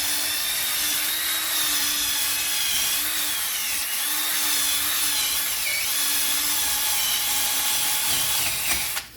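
Small power-driven wire wheel scrubbing rust and scale off the face of a wheel hub, cleaning it so the new brake rotor sits flat. The motor whine wavers and dips as the wheel bears on the metal, and the tool stops suddenly near the end.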